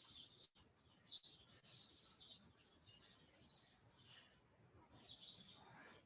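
Faint, high-pitched bird chirps, a few short calls about a second or so apart.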